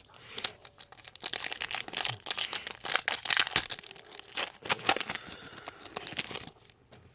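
A trading card pack's plastic wrapper being torn open and crinkled in the hands, a dense crackle with sharp snaps that stops about half a second before the end.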